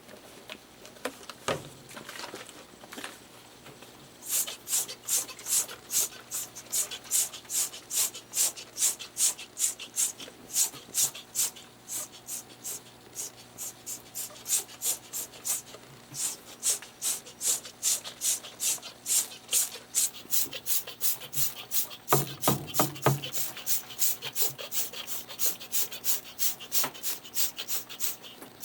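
Brush scrubbing a washing machine part back and forth, about two strokes a second, starting about four seconds in. A few knocks from handling the part come about two-thirds of the way through.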